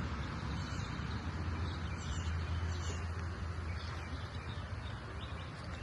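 Birds chirping in short high calls over a steady low rumble of outdoor background noise.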